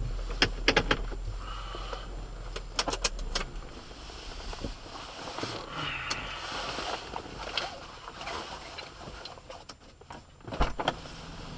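Inside a car: a low rumble fades out after about four seconds, with scattered sharp clicks and knocks in the cabin, clustered near the start, about three seconds in, and near the end.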